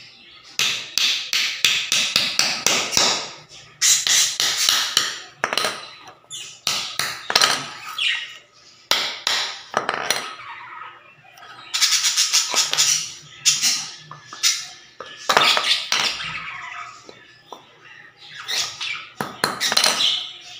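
Pet birds chattering, with bursts of rapid, harsh chirps and squawks, over background music.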